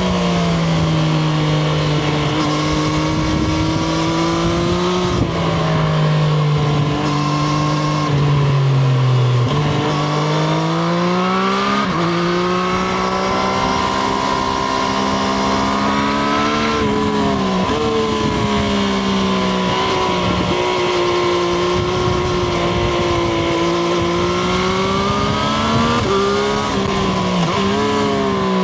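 Triumph Street Triple RS's three-cylinder engine heard onboard while riding, its revs climbing and falling repeatedly, with several sudden drops in pitch as the throttle is closed or gears are changed.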